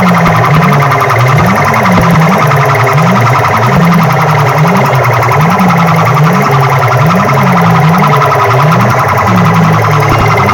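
DJ sound-box loudspeakers blasting a siren-like competition sound effect: a low wailing tone sweeping up and down about once a second under a steady higher buzz, very loud.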